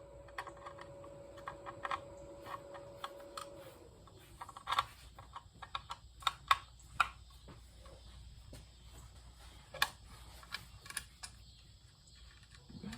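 Scattered light clicks and taps at an uneven pace. A faint steady hum runs under them for the first few seconds and then stops.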